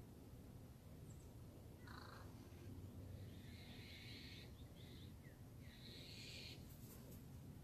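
Faint birds calling: three harsh, raspy calls about a second long each, with a few short chirps between, over a steady low rumble.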